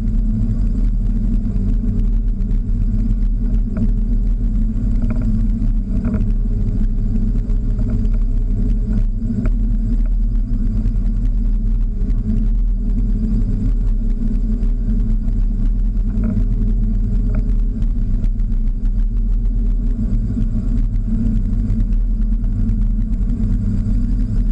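The schooner's inboard engine running at a steady speed, a low, even drone.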